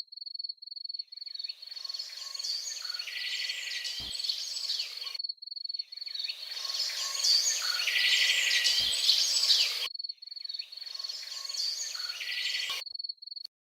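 Birds chirping and chattering in three stretches that start and stop abruptly, over a steady, evenly pulsing high insect trill.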